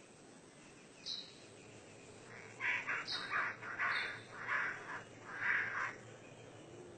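Bird calling: a short high note about a second in, then a run of six or seven harsh, rasping calls over about three and a half seconds, with a couple of thin high notes mixed in.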